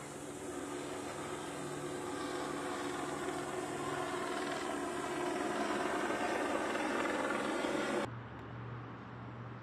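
An SUV's engine running hard at steady revs as it strains through deep mud, growing louder over about eight seconds. It cuts off suddenly near the end, leaving a quieter low hum.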